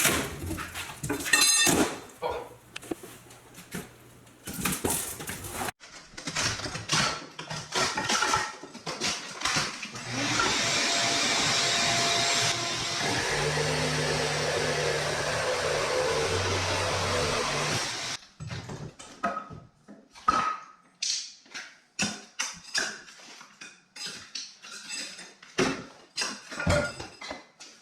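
Demolition of a tiled fireplace surround: repeated knocks, cracks and clattering of breaking tile and masonry debris. From about ten seconds in, a motorised tool runs steadily for about eight seconds.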